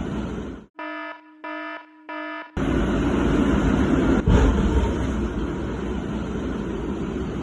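Three short electronic alarm beeps, evenly spaced, then a loud, steady rumble of a moving train or vehicle with a single knock partway through.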